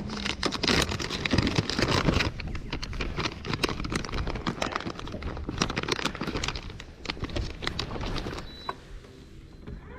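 Wind buffeting the microphone in strong gusts, a crackling rumble that eases off near the end.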